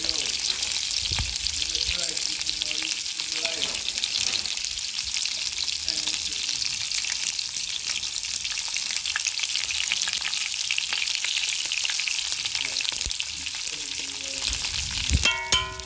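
Chicken back frying in hot oil in a pot: a steady sizzle with fine crackling. Near the end there is a brief ringing metallic clank.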